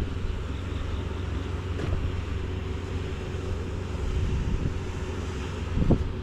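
Farm machine engine running steadily, with wind buffeting the microphone.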